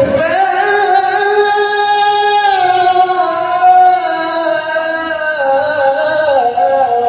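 Melodic Quran recitation (tilawah) by a male qari, singing one long held phrase in a high register. The pitch turns slowly and steps down a few times toward the end.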